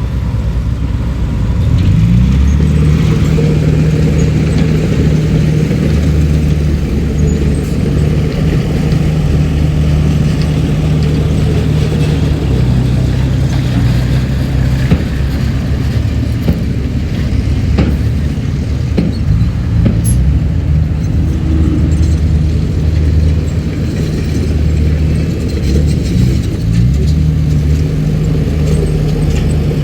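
Komatsu D31PX bulldozer's diesel engine revving up about two seconds in and running hard under load, its pitch sagging and picking up again several times.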